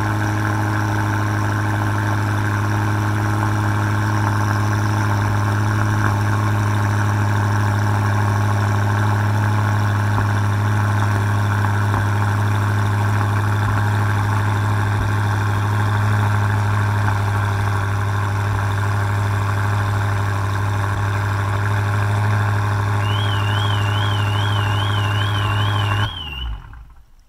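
Maserati Quattroporte GTS twin-turbo V8 idling steadily at the tailpipes while the engine burns oil, until the sound cuts off suddenly about a second before the end.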